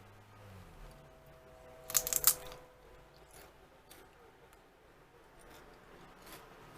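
A bite into a very crispy potato chip: a quick run of sharp, loud crunches about two seconds in, followed by fainter chewing crunches.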